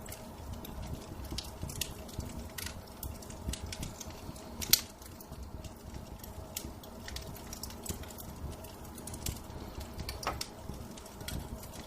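Wood fire crackling in a fireplace: irregular small pops and snaps, with one sharp, louder pop near the middle, over a steady low rumble.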